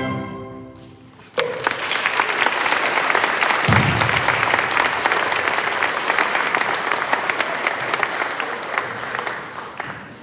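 The last chord of a song on plucked string instruments fades out, then about a second and a half in the audience starts applauding, a dense steady clapping that thins out near the end.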